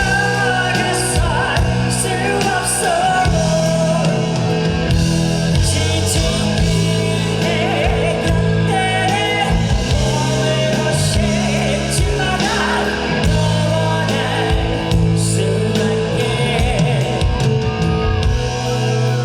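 Live rock band playing: drums, bass and electric guitar at a steady loud level, with singing over them.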